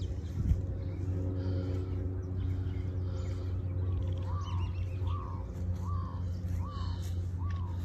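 A bird calling over and over, about six short arched notes some two-thirds of a second apart, starting about halfway through, over a steady low rumble. A single thump about half a second in.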